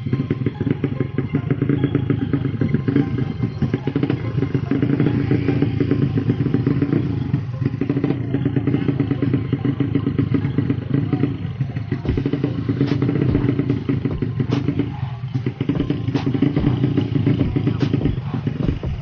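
A bored-up 200cc Yamaha Jupiter underbone motorcycle engine running steadily at a fast idle, its pitch held fairly even. A few sharp clicks are heard over it.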